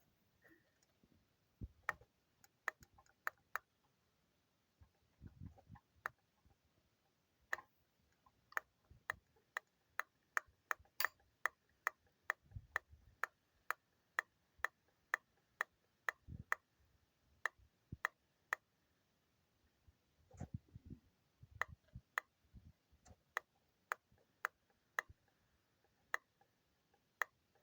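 Sharp knocks from an Audi 2.0 AAD four-cylinder engine, coming in irregular runs of about two a second with short pauses: the unexplained knock that the owner is asking about.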